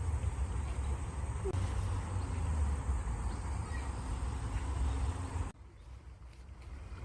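Outdoor nature ambience of running water with a deep low rumble, which drops away abruptly about five and a half seconds in.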